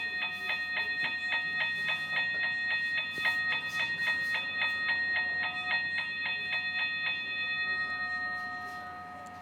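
Toy railroad crossing gate's mechanical bell ringing in rapid, even strokes, about three to four a second. The strokes stop about seven seconds in and the ring fades away.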